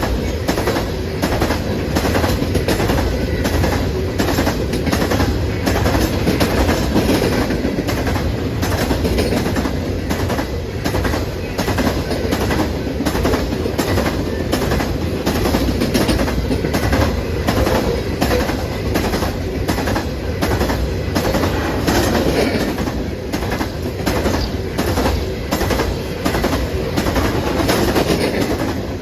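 Railroad cars of a passing train rolling by, a steady rumble with the wheels clicking over rail joints a couple of times a second.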